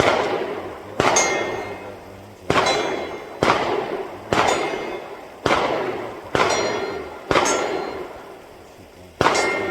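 A string of about nine gunshots, roughly one a second with a longer gap near the end, each followed by the clang and ring of a hit on steel targets.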